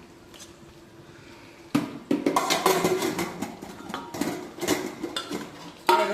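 Metal serving spoons and dishes clinking and scraping as food is served, a busy run of clinks and knocks starting about two seconds in.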